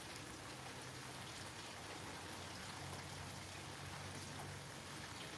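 Faint steady hiss with a low hum underneath: room tone.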